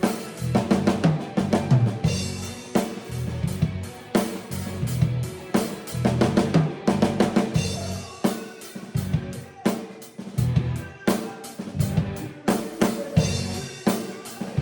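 Drum kit being played in a busy groove: bass drum, snare and cymbal hits in quick succession.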